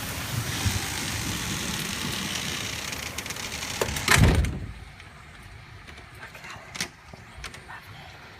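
Heavy rain pouring down steadily, then a loud thump a little over four seconds in, after which the rain is much quieter, with a few small clicks.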